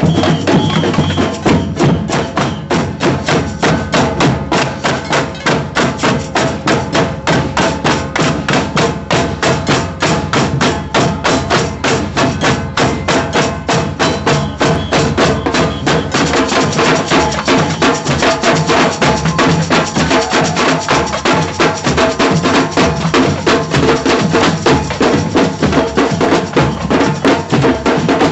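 Street drum band playing a steady, fast marching beat with sharp stick strikes. The rhythm carries on unbroken, and the sound grows brighter about sixteen seconds in.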